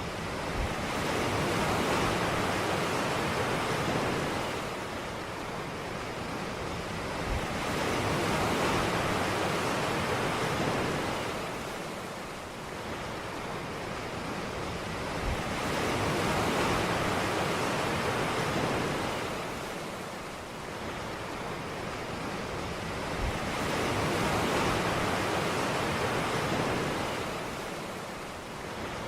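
Ocean waves breaking and washing up a beach, the surf swelling and ebbing about every eight seconds, with a soft low thump as each wave breaks.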